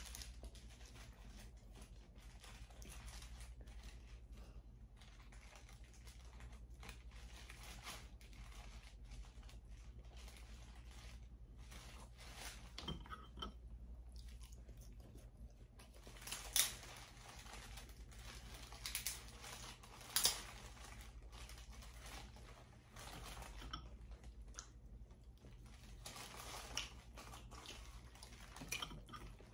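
Close-miked chewing and eating sounds: soft chewing with scattered short wet clicks and smacks, two louder ones a little past halfway, over a steady low hum.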